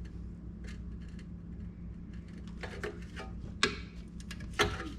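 Screwdriver prying and scraping at the plastic clip of a car's brake pad wear sensor line: a run of small irregular clicks and scrapes, more frequent in the second half, with two sharper clicks near the end, over a steady low hum. The clip is brittle.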